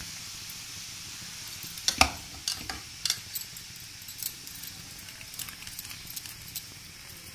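Besan sev frying in hot oil in a kadhai: a steady sizzle. About two to three seconds in, a few sharp clinks and knocks as the sev is stirred in the pan.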